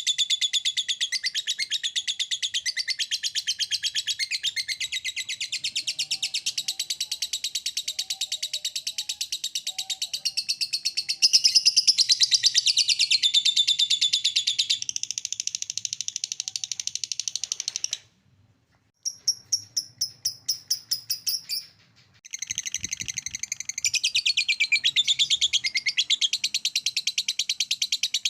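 Lovebird 'ngekek' song: a long, fast, unbroken chattering trill of repeated high notes, used as a lure call to set other lovebirds singing. It breaks off briefly about two-thirds of the way through, with a short burst of quicker ticking notes in between, then runs on.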